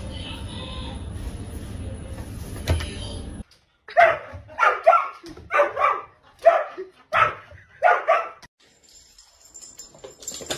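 A dog barking in a quick run of short barks, starting about four seconds in and stopping about four seconds later.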